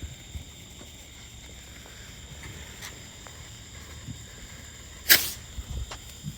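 A small firework going off: one short, sharp, very loud burst about five seconds in, over an otherwise quiet background with a steady high tone.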